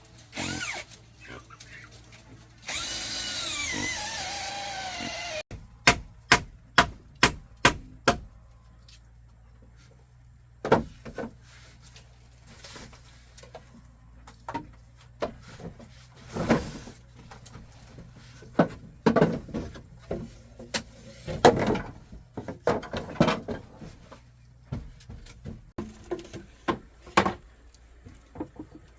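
A power drill runs for about three seconds with a whine that glides in pitch, then a run of about seven sharp, evenly spaced knocks. Scattered wooden knocks and taps follow as the timber is worked.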